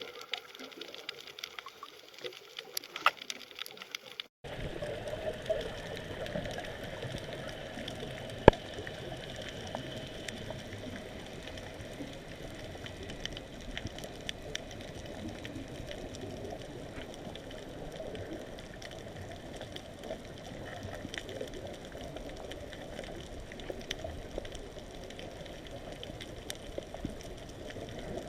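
Steady water noise with scattered light clicks and one sharp click a little past 8 seconds in. About 4 seconds in the sound changes abruptly and becomes louder and fuller.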